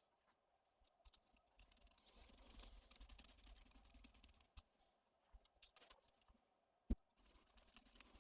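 Faint clicking and rustling of small plastic and metal RC truck parts being handled during a differential rebuild, with one sharp click about seven seconds in.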